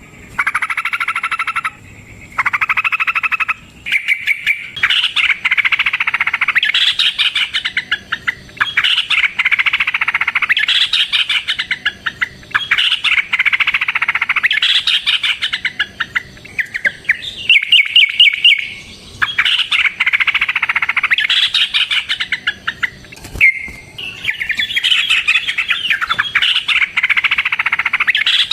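Yellow-vented bulbul (trucukan) song: a few separate short phrases at first, then a long, almost unbroken run of rapid chattering notes.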